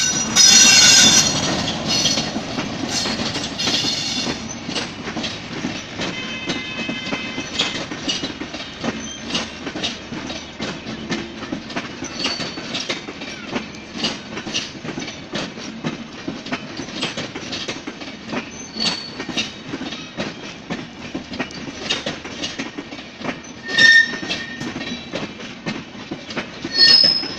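Diesel-hauled express passenger train passing at speed close by: loudest in the first few seconds as the locomotive goes past, then a long steady clickety-clack of the coaches' wheels over the rail joints, with a few brief high-pitched squeals.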